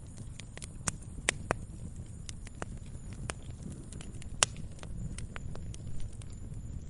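Campfire crackling: irregular sharp pops and snaps of burning wood, several louder pops (the loudest about four and a half seconds in), over a steady low rumble of the flames.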